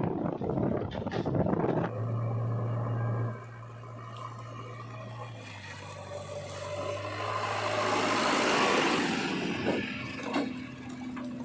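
Diesel engine running, with a steady low hum. A rising-then-fading hiss swells in the middle, and a couple of sharp knocks come near the end.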